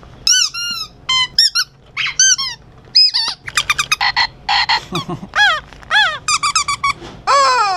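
Squeaky rubber dog toy being squeezed over and over: a rapid string of about a dozen high, honking squeaks that rise and fall in pitch, with longer, falling squeaks near the end.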